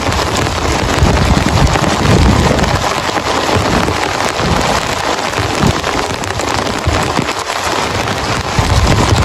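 Heavy rain pelting down, a dense patter with a deep, uneven rumble underneath that eases in the middle and swells again near the end.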